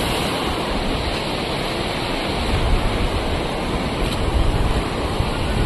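Steady rush of fast-flowing river floodwater, with low rumbling gusts swelling in and out over the second half.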